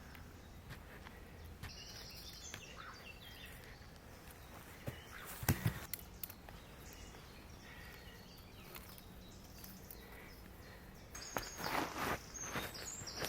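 Woodland ambience: short bursts of high-pitched insect or bird buzzing, a couple of sharp knocks about five and a half seconds in, and rustling near the end.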